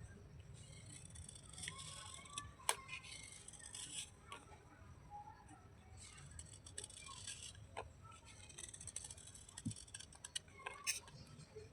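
Wet slate pieces crunching and crumbling, in irregular gritty crackles with occasional sharp clicks, the loudest about a third of the way in.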